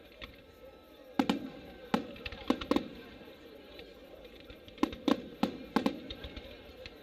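Aerial firework shells bursting in a series of sharp bangs, some in quick pairs. One cluster comes about a second in and another about five seconds in.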